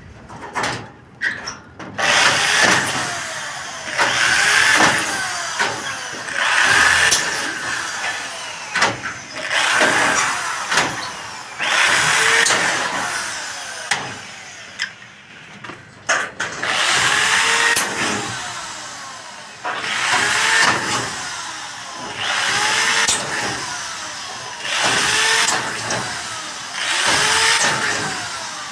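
A power tool run in about a dozen short bursts a couple of seconds apart, its motor pitch rising and falling with each burst, with a pause about halfway through.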